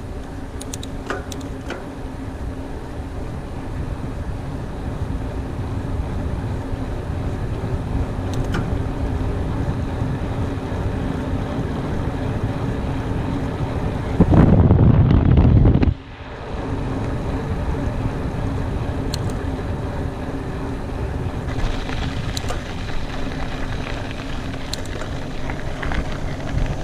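Mountain bike riding along a dirt forest trail: steady tyre noise and wind rushing over the helmet or bike microphone, with scattered small clicks and rattles from the bike. About halfway through there is a louder, low rush of wind for under two seconds.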